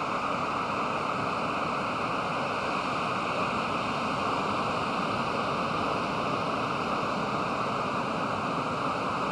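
Pacific Ocean surf breaking on a sandy beach: a steady wash of noise with no single wave standing out.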